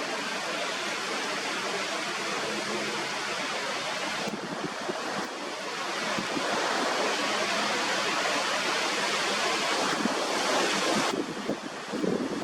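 Steady rush of wind buffeting the microphone, mixed with ocean surf. It swells louder about halfway through and eases off near the end.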